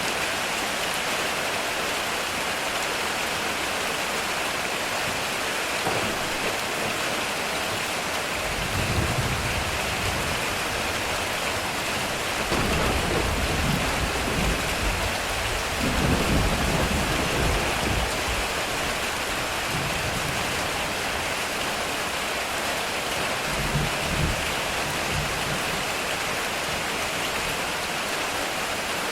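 Heavy rain drumming on a metal roof, a steady hiss, with rolling thunder that rumbles in waves from about a third of the way in to past the middle, loudest around halfway, and a shorter rumble later on.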